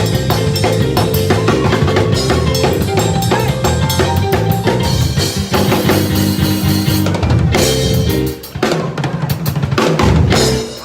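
Up-tempo gospel praise-break music led by a drum kit, with rapid snare and bass-drum hits over a moving bass line. It dips briefly about eight seconds in, picks up again, and drops away at the very end.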